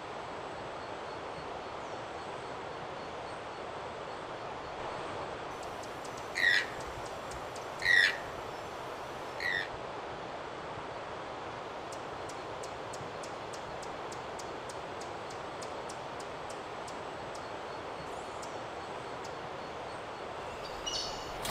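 Tropical forest ambience with a steady hiss, and three loud bird calls, each falling in pitch, about a second and a half apart. Later comes a run of faint, evenly spaced high ticks.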